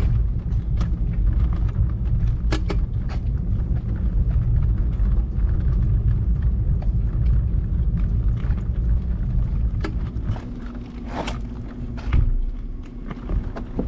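Loaded delivery hand truck being wheeled over pavement: a heavy low rumble with scattered knocks and rattles. The rumble eases about ten seconds in.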